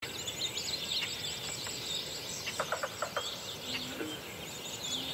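Small birds chirping and twittering, many short, quick overlapping calls with a brief run of sharp notes near the middle, over a soft steady hiss.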